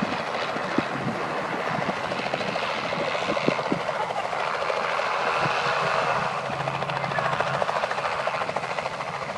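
Helicopter close by with its rotor beating rapidly and its engine running hard as it powers up to lift off; the sound swells about halfway through.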